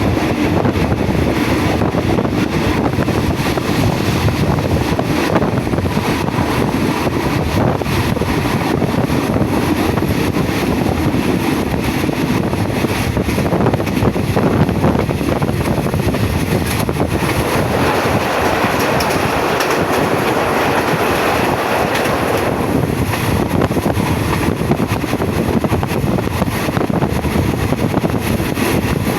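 Passenger train running along the track: a steady rumble of wheels on the rails with faint rail clicks and rattle.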